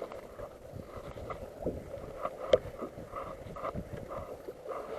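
Water lapping against a fishing kayak's hull, with scattered light knocks and clicks; one sharper click about two and a half seconds in.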